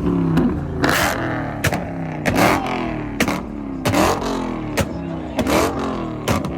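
Car engine revved again and again, the pitch falling away after each blip, with sharp exhaust pops and bangs (backfires) cracking out every half second or so.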